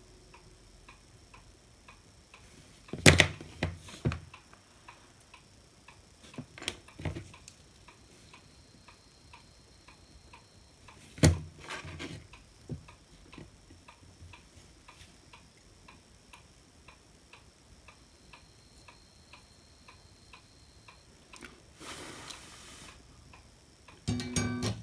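Steady faint ticking, about two ticks a second, under occasional sharp clicks and knocks from tools and parts being handled on a workbench while a wire is soldered. There is a short hiss near the end, followed by a few more knocks.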